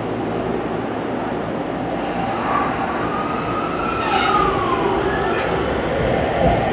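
JR E231 series electric commuter train moving along the track past the platform: a steady rail rumble, with a whine that rises and then falls in pitch midway through.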